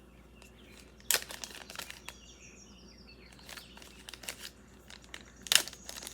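Packaging crinkling and crackling as it is handled while an item is unwrapped, with sharp crackles about a second in and near the end.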